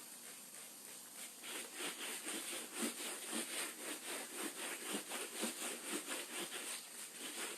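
Rubber anti-fatigue floor mat being scrubbed with floor degreaser, rhythmic back-and-forth scrubbing strokes, about two to three a second, starting about a second in.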